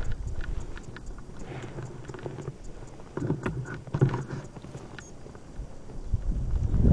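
Skis and poles working slowly through heavy snow, with scattered soft crunches and clicks. Near the end the rush of snow and wind builds quickly as the skier picks up speed.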